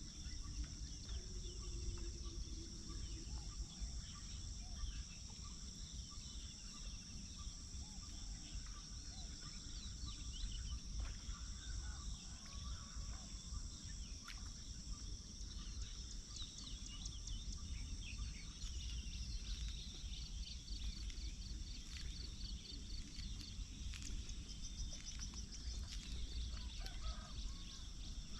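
Outdoor dawn ambience: a steady high insect drone with scattered bird chirps and calls, and a fast pulsed trill in the second half, over a low background rumble.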